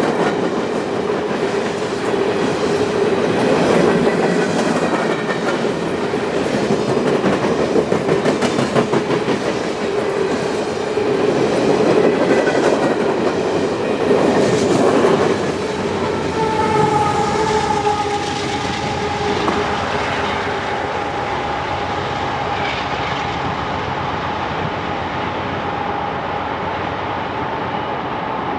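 Freight train rolling past, its car wheels clicking rhythmically over the rail joints. Past the halfway point the clicking fades and a steady high tone takes over.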